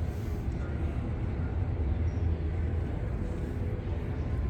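Steady low rumble of background room noise in a large indoor exhibition hall, with no distinct events.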